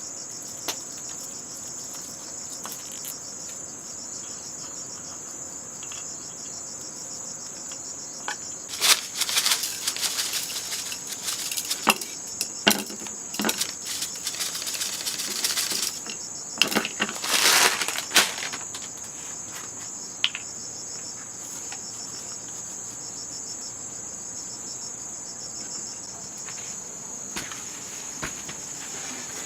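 Steady high-pitched insect chorus, with a stretch of loud rustling and crackling in the middle.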